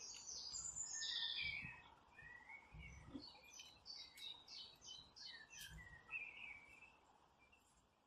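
A small songbird singing a fast run of short, high chirps and warbles, stopping about seven seconds in.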